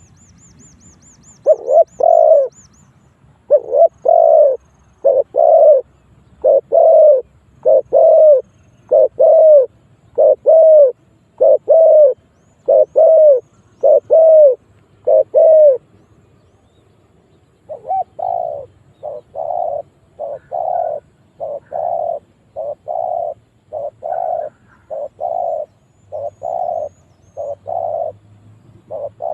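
Spotted dove cooing over and over in short repeated notes, pausing for about two seconds midway before carrying on a little quieter. It is a decoy bird's call used to draw wild doves in to fight. Faint high twittering of a small bird is heard near the start.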